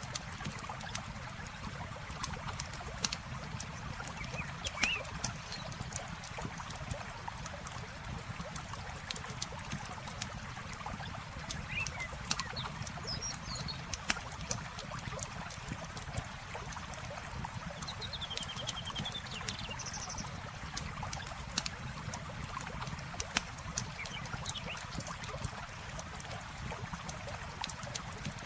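Campfire crackling with frequent sharp pops over steady trickling water, with a few faint bird chirps now and then.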